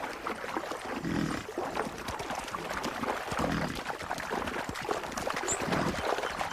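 Water splashing and sloshing, irregular and continuous, as buffalo wade across a creek.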